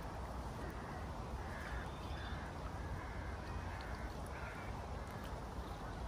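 A bird calling in a string of short calls, about two a second for some three seconds, over a steady low rumble.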